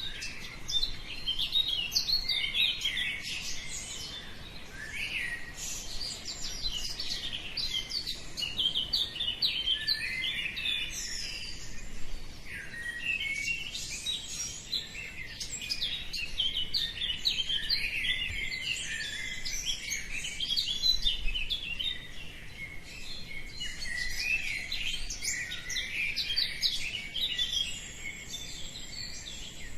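Many small birds chirping and singing at once: a dense, continuous chorus of overlapping high chirps and trills.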